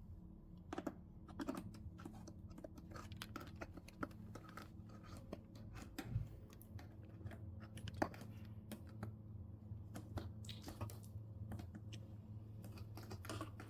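Scattered small clicks and light taps of a screwdriver working screws out of a TV's plastic casing, with the set shifting and knocking now and then, over a low steady hum.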